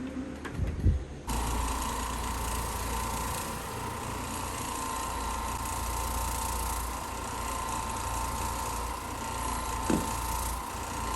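A carpet-cleaning machine starts up about a second in and runs steadily, with a steady whine over a low hum. A brief knock comes near the end.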